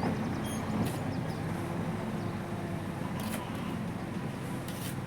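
Tractor engine running steadily at a low, even pitch, with a few brief high clicks or rattles over it.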